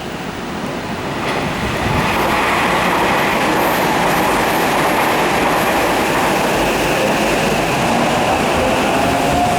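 Tokyo Metro 8000 series electric train pulling out and gathering speed, its wheels clattering on the rails and growing louder over the first two seconds. Near the end a motor whine comes in, rising slightly in pitch as it accelerates.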